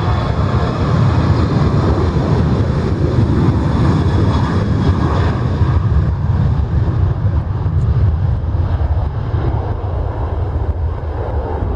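Jet airliner engines running loudly, a heavy rumble with a faint whine above it; the higher part fades about halfway through as the aircraft moves away.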